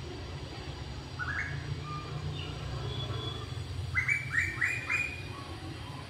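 A bird calling: a single short rising note about a second in, then four quick rising notes in a row near the end, over a steady low rumble.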